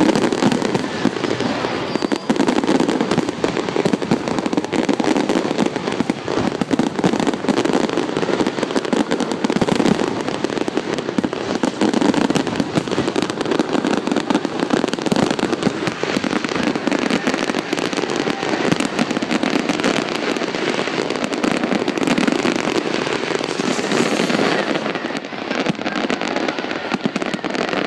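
Fireworks display: a dense, continuous barrage of bursts and crackling with no break.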